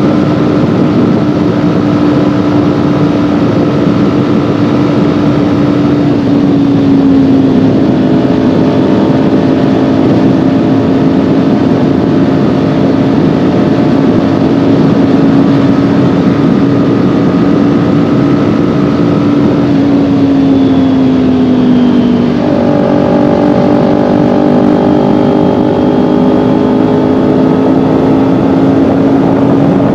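Kawasaki Ninja 400's parallel-twin engine running steadily under way, with wind and road noise over it. The engine note drops slightly about seven seconds in and again a little after twenty seconds, then holds steady.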